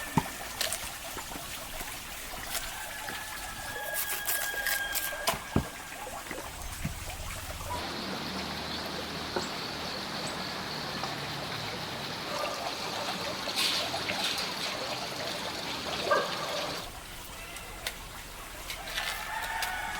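Water trickling and splashing, with a steady rush of running water from about eight seconds in until about seventeen seconds, when it stops abruptly; scattered clicks and knocks throughout.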